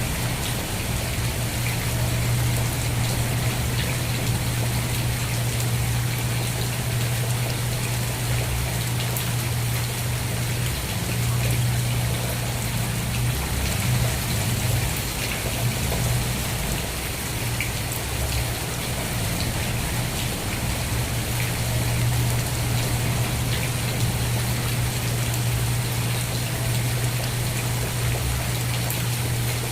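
Steady rain falling, a dense even hiss flecked with small drop ticks, over a constant low hum.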